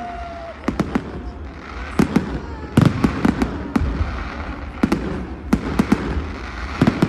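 New Year fireworks going off: sharp bangs and crackles at irregular intervals, some in quick clusters, over a low rumble.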